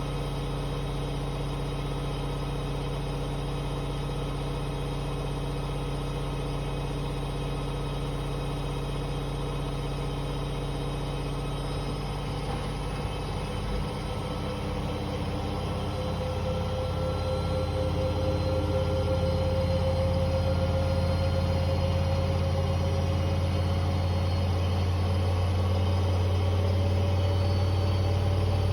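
Hoover H-Wash 500 washing machine on its spin cycle, motor and drum running with a steady hum. About halfway through, the drum speeds up: the sound gets louder and a whine slowly rises in pitch as the spin builds toward its 1600 rpm setting.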